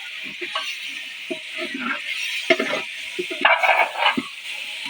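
Beef and spiced onions sizzling in a large cooking pot while being stirred. The spatula scrapes and knocks irregularly against the pot as the meat is fried down in the masala.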